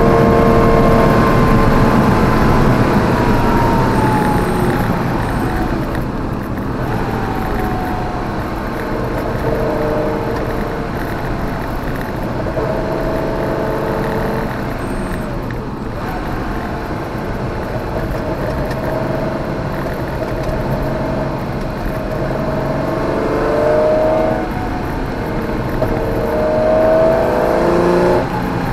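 Porsche 914/6's air-cooled flat-six engine heard from inside the cabin at speed: its note falls as the driver comes off the throttle over the first few seconds, holds through the middle, then climbs in rising sweeps under acceleration near the end.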